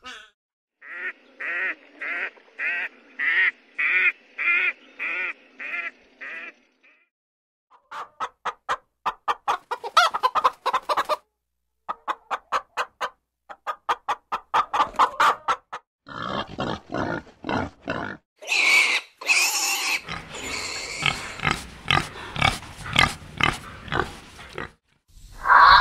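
A sequence of animal calls. First a pitched call repeats about twice a second for some six seconds. After a short pause come runs of rapid clicks, then a mix of louder calls near the end.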